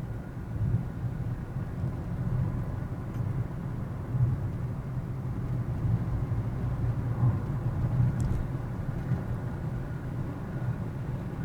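A car being driven, heard from inside: a steady low rumble of engine and road noise, with one brief tick about eight seconds in.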